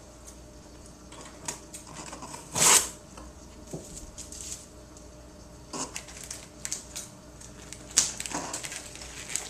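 Cardboard packaging of a fireworks assortment being handled and opened: scattered clicks, scrapes and rustles, with a short loud rasp about two and a half seconds in and a sharp one near the end.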